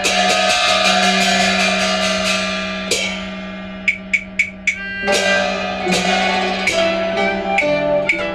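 Instrumental interlude of a Chinese song's accompaniment between sung lines: a sustained melody over a steady low note, with struck notes and four quick, sharp percussion clicks about four seconds in.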